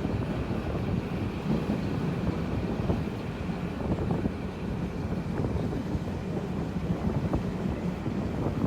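Steady running rumble of a moving train heard from on board, with wind buffeting the microphone and faint scattered rattles.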